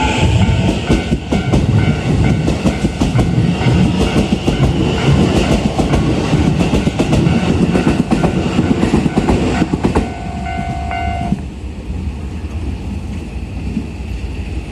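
Keikyu New 1000 series electric train pulling out past the level crossing: a motor whine rises in pitch at the start, then the wheels clatter over the rail joints in fast, dense clicks over a heavy rumble. A level-crossing warning bell rings on top and stops sharply about eleven seconds in, after which the train noise fades.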